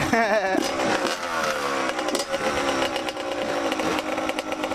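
Dirt bike engine revved, its pitch falling back over the first couple of seconds, then running steadily at idle.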